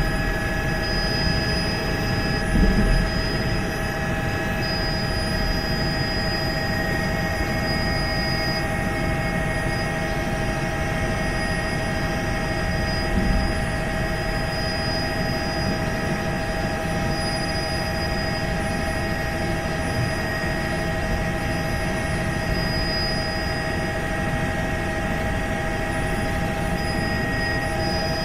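Helicopter in flight: a steady drone with several unchanging high tones over continuous rotor and engine noise, and two brief low thumps, about 3 and 13 seconds in.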